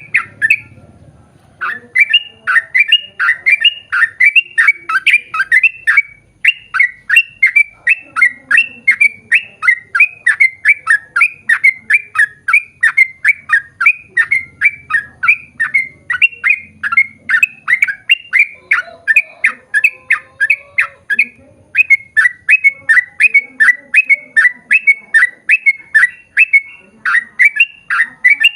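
Yellow-vented bulbul (trucukan) singing a long, fast run of loud repeated notes, about three a second. The run starts a little over a second in and breaks briefly twice.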